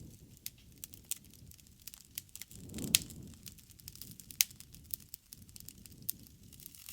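Wood bonfire crackling, with irregular sharp pops and snaps over a low rumble of flames. The rumble swells about three seconds in, where the loudest pop falls, and another loud snap comes a second and a half later.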